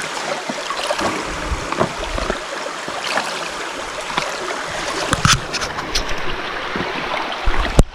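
Cold brook water gurgling and splashing, with small irregular splashes over a steady rush; it cuts off abruptly just before the end.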